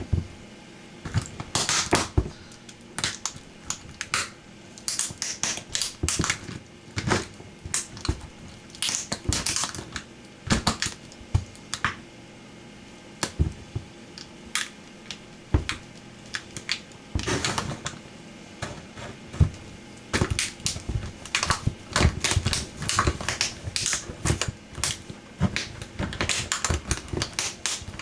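Toy truck being crushed under a boot: many sharp cracks, snaps and crunches in irregular clusters, with short pauses between bouts.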